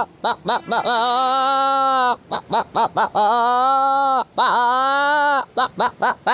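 A man imitating a billy goat's bleating with his voice: three long, quavering bleats with short broken bleats between them.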